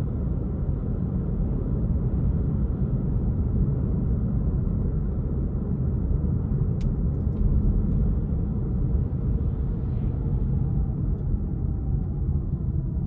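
Car driving along: a steady low rumble of engine and tyre noise, with a few faint clicks about seven seconds in.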